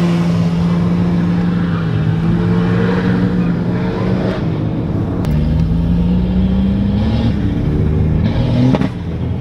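Car engine running under way, heard from inside a car's cabin. It holds a steady pitch, dips about five seconds in, then climbs steadily as the car accelerates, and falls sharply near the end.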